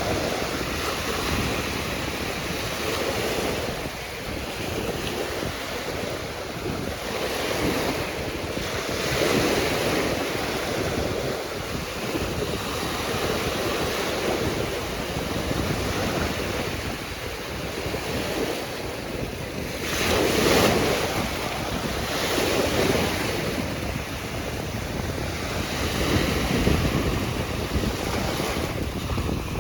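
Ocean surf: waves breaking and washing ashore in swells every few seconds, with wind buffeting the microphone. One wave, about two-thirds of the way through, is louder than the rest.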